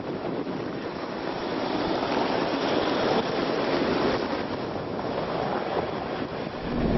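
A steady rushing noise that swells a little in the middle, with a louder, deeper rumble coming in at the very end.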